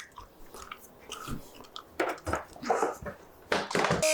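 Clatter and knocks of a small power grinder and the wooden rifle stock being handled, then the electric grinder switches on near the end with a steady high whine.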